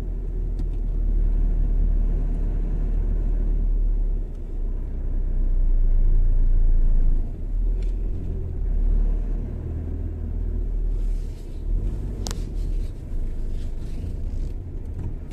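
Car driving along a road: a steady low rumble of road and engine noise that swells and eases, with one sharp click about three-quarters of the way through.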